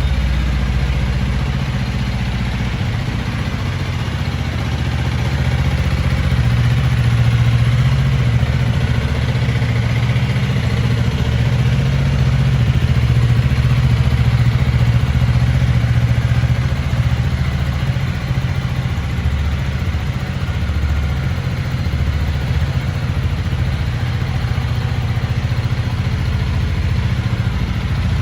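Honda CRF300 Rally's 286 cc single-cylinder four-stroke engine running at idle, steady and low, a little louder for several seconds in the middle.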